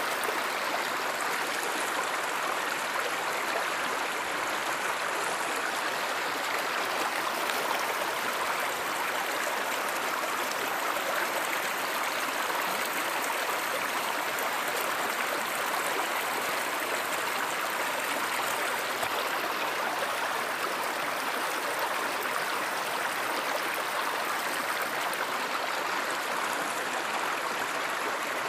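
Stream water flowing steadily, a constant rushing and gurgling.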